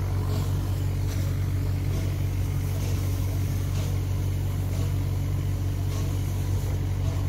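Old railway carriages rolling slowly past over the track, under a steady low hum, with a few faint clicks from the running gear.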